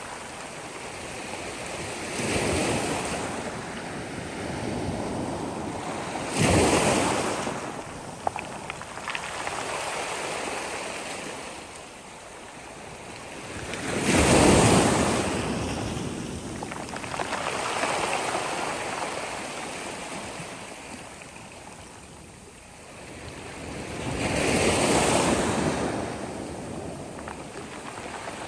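Sea waves breaking on a beach: a steady wash of surf with a wave crashing every few seconds, the loudest breakers about six and fourteen seconds in.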